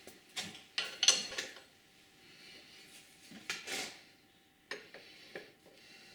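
Metal parts and tools clinking and clattering as they are handled: a cluster of knocks in the first second and a half, another clatter around the middle, and two sharper clicks near the end.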